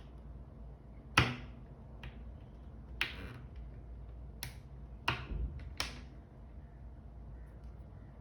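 Five sharp clicks of small hard parts, the first the loudest, from handling a G-Shock watch and its band.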